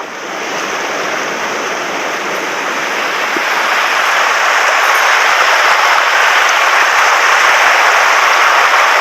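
Mountain stream running high and fast after heavy rain: a steady rush of water that grows louder over the first few seconds, then holds.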